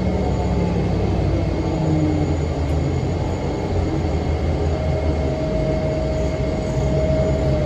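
A 2006 NABI 40' LFW transit bus under way, its Cummins ISM diesel engine and Allison transmission giving a steady low drone with the engine cooling fan running. A steady whine sets in about five seconds in.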